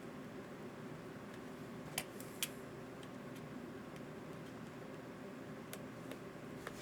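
A few sharp, light clicks, two close together about two seconds in and single ones later, over a steady low background hum.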